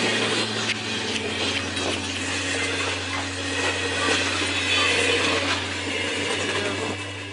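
Train running through deep snow: a steady low engine hum under a loud rushing noise, with scattered rattles and clicks, cutting off suddenly at the end.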